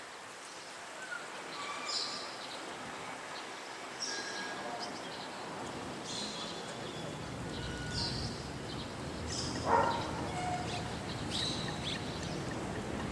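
Birds calling: short high chirps every second or two, with one louder, lower call about ten seconds in, over a steady background hiss that grows after about five seconds.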